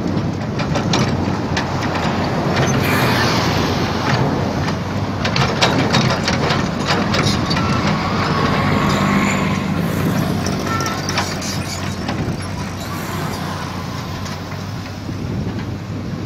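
Komatsu PC75 excavator's diesel engine running steadily as the machine works, with many sharp metal clanks and knocks and a brief high whine around the middle.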